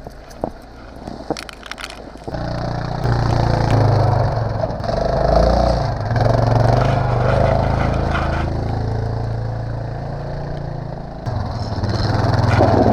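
Yamaha Grizzly 660 ATV's single-cylinder engine running; it comes in about two seconds in after a few light knocks and carries on with small rises and falls in pitch.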